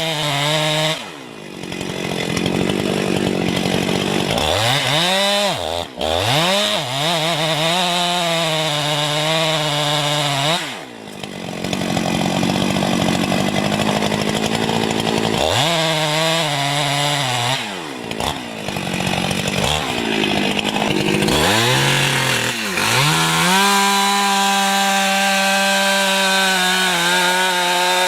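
Engine of a wood-cutting machine running hard, its pitch sagging as it labours in the cut and climbing back, over and over, with several abrupt breaks where the sound drops out briefly.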